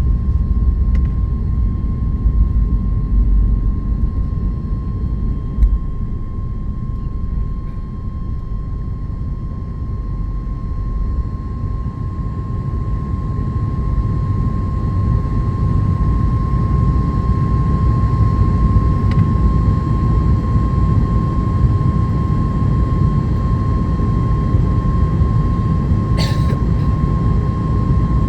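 Cabin noise of a Boeing 737 MAX 8 climbing after takeoff: the steady low rumble of its CFM LEAP-1B turbofan engines and airflow, with a constant thin whining tone over it. A brief click sounds near the end.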